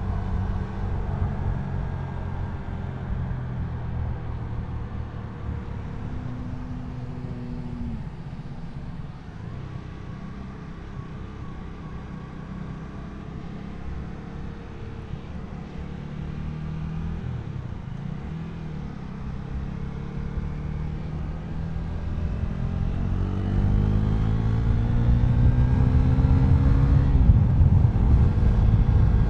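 Motorcycle engine riding in slow traffic with wind rumble on the microphone, then accelerating about two-thirds of the way in, the engine note rising and getting louder before dropping sharply at a gear change near the end.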